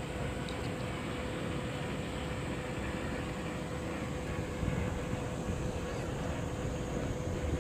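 A boat's engine running steadily, a low rumble with a constant hum.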